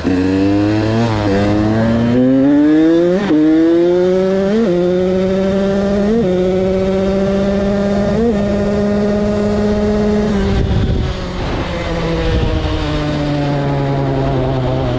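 KTM 85 BigWheel's two-stroke single-cylinder engine held wide open, climbing through the gears with a brief dip in pitch at each upshift, then holding a high note. About two-thirds of the way in the revs fall away and the engine drops to a lower note, with wind rushing over the microphone.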